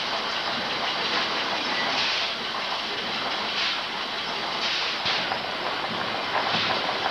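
Steam-driven reciprocating machinery running steadily: a puff of steam hiss about once a second over constant mechanical clatter.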